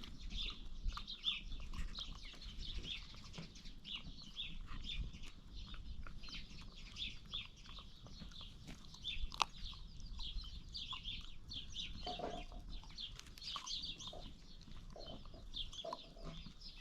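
Many birds chirping continuously, a dense chorus of short high calls, over a low rumble, with a single sharp click about nine seconds in.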